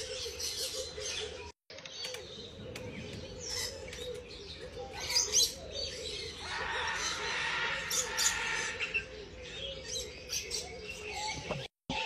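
Many birds chirping and calling, with short, sharp chirps throughout and a denser stretch of chatter in the middle. The sound drops out briefly twice.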